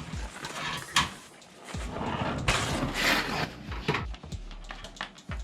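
Hard drive being fitted into a desktop computer case's drive bay: a sharp click, then a few seconds of scraping and rustling handling noise with a few knocks.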